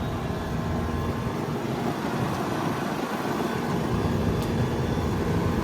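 A 2013 Thermal Zone 5-ton heat pump's outdoor unit running in cooling: a steady rush of the condenser fan with a low hum from its Copeland scroll compressor.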